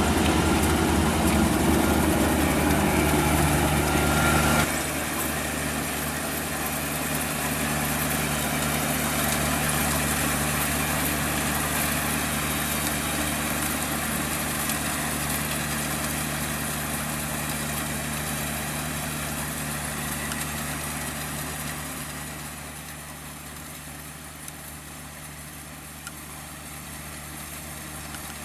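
Combine harvester's diesel engine running steadily. About four and a half seconds in, it drops suddenly to a quieter, smoother running, then grows gradually fainter over the last several seconds.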